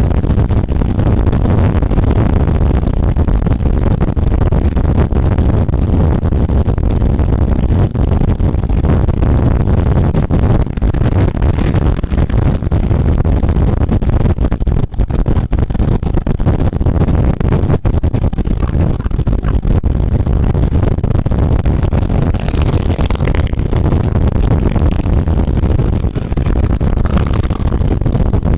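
Loud, steady wind buffeting on the microphone of a camera moving at road-race speed, a low, rough rumble that flutters in level.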